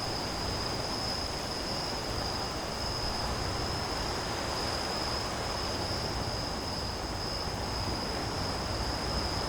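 Crickets chirring in a steady chorus, one continuous high-pitched trill, over an even background hiss.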